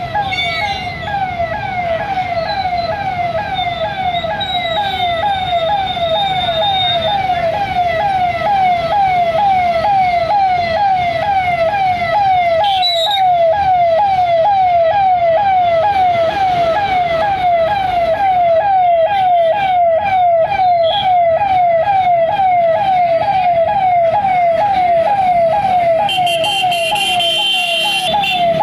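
Electronic siren cycling rapidly, one pitch sweep about twice a second, keeping the same fast rhythm throughout over a rough low rumble.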